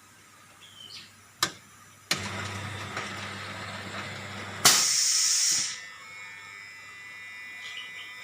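Semi-automatic four-nozzle pouch filling machine running a cycle: a click, then a steady buzzing hum with a hiss for about two and a half seconds, ending in a loud, short burst of hissing about halfway through.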